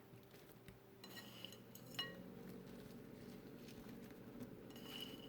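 Faint clinks of a metal utensil against a bowl while cinnamon-roll filling is scooped, a sharp one about two seconds in and a ringing one near the end, over a low steady hum.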